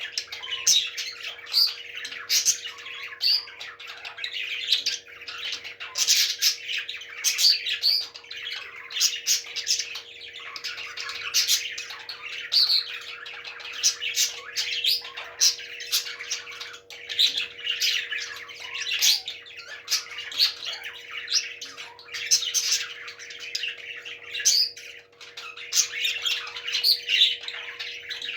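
Parrots squawking and chirping without pause: a dense run of short, harsh calls, with a faint steady hum underneath.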